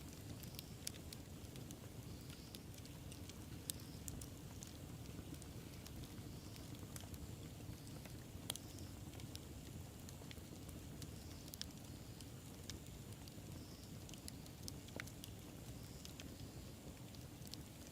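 Wood bonfire crackling: scattered sharp pops and snaps over a steady low rumble of the flames, with two louder pops about four and eight and a half seconds in.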